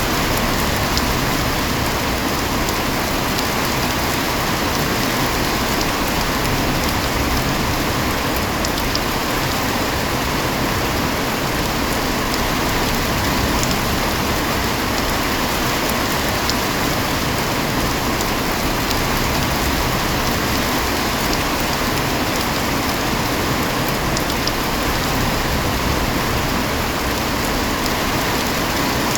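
Heavy rain falling steadily, an even rush that holds without a break.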